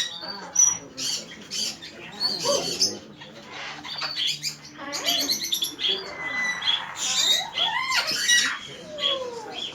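Several pet parrots squawking, harsh calls again and again, with a few whistles that rise and fall.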